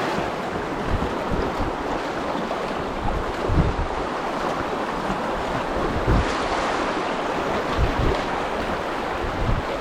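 River current rushing and splashing around a packraft as it floats downstream, a steady watery hiss, with a few brief low thumps along the way.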